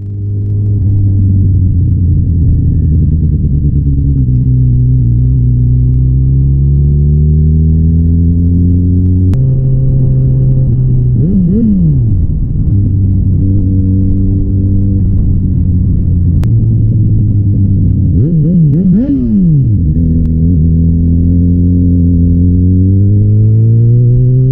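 Yamaha XJ6N's 600 cc inline-four engine running under way, heard loud on the bike itself. Its pitch changes in steps as it shifts gear and climbs steadily near the end as it accelerates. Twice, a short whine sweeps up and back down over it.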